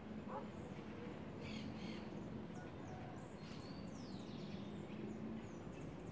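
Birds chirping in the tree canopy: scattered short high calls and quick falling chirps, most of them a little after a second in and again from about three to four and a half seconds in, over a low steady hum.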